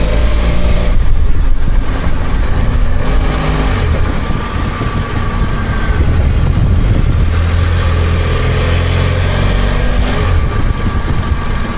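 BMW F800GS's parallel-twin engine running under the rider, its note rising and falling slightly with the throttle.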